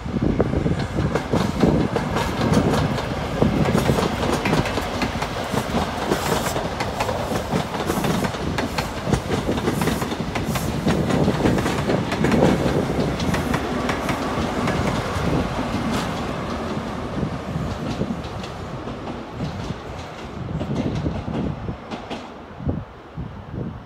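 Class 43 High Speed Train with yellow Network Rail measurement coaches passing at speed, its wheels clattering over the rail joints in a fast clickety-clack. It dies away over the last few seconds as the rear of the train goes by.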